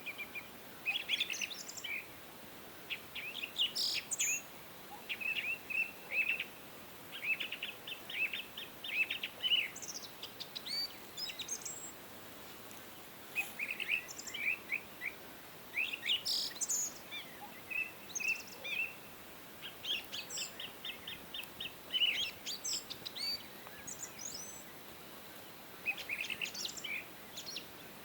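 Several songbirds singing: clusters of quick chirps, short trills and whistled phrases every few seconds, over a faint steady hiss.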